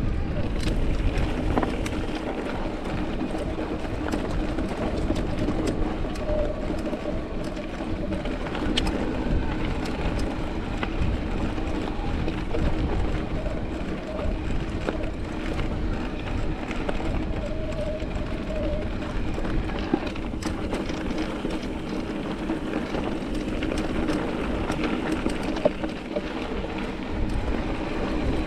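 Mountain bike being ridden along a dirt trail: a steady rumble of tyres and frame, with scattered clicks and rattles from the bike, and wind rumbling on the microphone.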